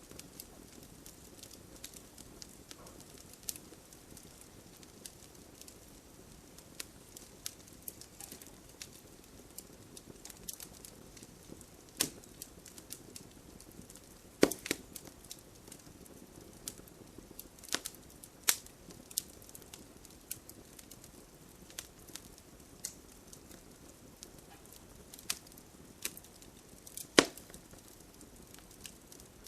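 Wood campfire crackling: irregular sharp pops and snaps over a soft low rush of flame, with louder pops about halfway through and again near the end.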